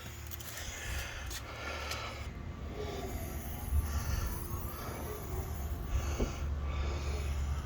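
1992 Buick Riviera's 3.8-litre V6 idling with a low, steady rumble.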